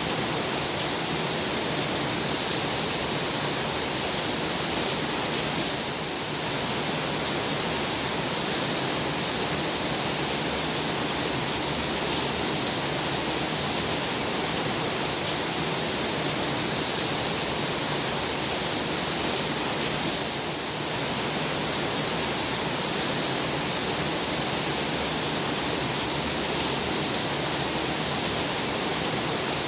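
Heavy rain falling steadily, a dense even hiss with no separate drops standing out, easing very slightly twice for a moment.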